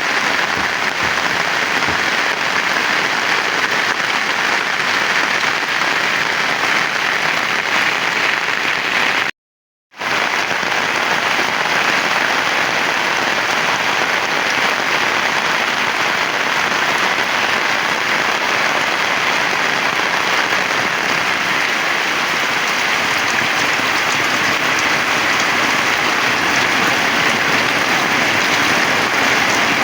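Heavy rain falling steadily as a dense, even hiss. It cuts out to silence for about half a second roughly a third of the way through.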